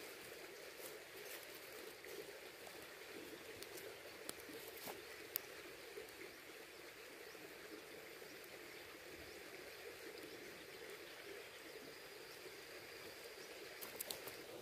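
Faint steady rush of a flowing river, with a few sharp clicks.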